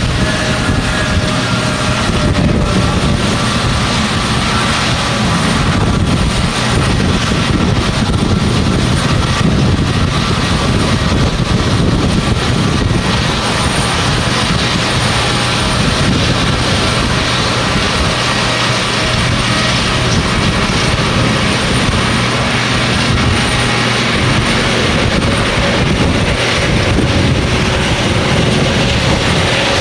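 Jet airliner engines running loud and steady: a continuous rushing noise with faint whining tones over it.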